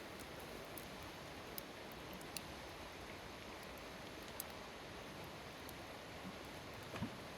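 Wood fire burning with a steady low hiss and a few sharp, isolated crackles, then a soft thump near the end.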